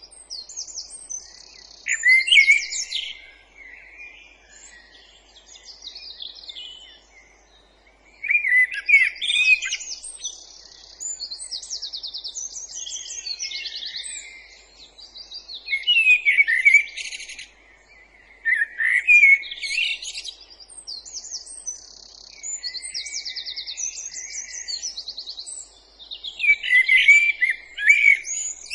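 Several songbirds singing over one another in a woodland chorus: loud, varied phrases come every few seconds over a steady background of rapid high trills and twitters.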